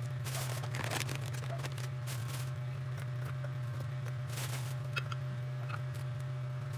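A steady low hum with scattered light clicks and short rustling noises over it.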